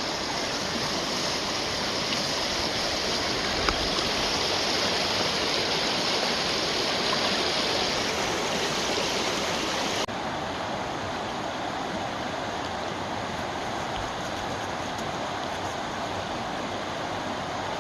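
Creek running high after heavy rain: a steady rush of flowing water. About ten seconds in the sound drops abruptly to a slightly quieter, duller rush.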